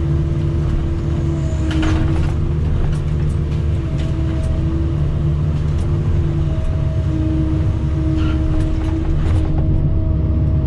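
Kobelco excavator's diesel engine working under load with a steady hydraulic whine that shifts in pitch a few times, while it pushes over dead trees. A few sharp cracks of breaking wood come through.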